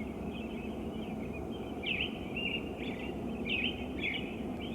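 Songbirds chirping: repeated short, sharp down-and-up chirps, several in a row, over steady low background noise.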